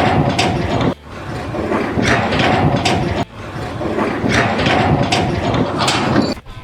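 Machinery running with a loud mechanical rattle and grinding. It breaks off abruptly three times: about a second in, about three seconds in, and near the end.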